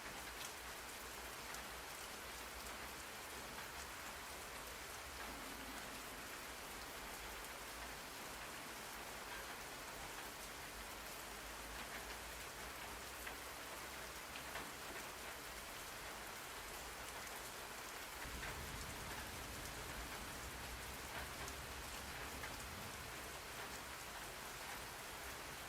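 Steady rain ambience: dense rain pattering on a surface, an even hiss with fine scattered drop ticks, and a little more low rumble from about eighteen seconds in.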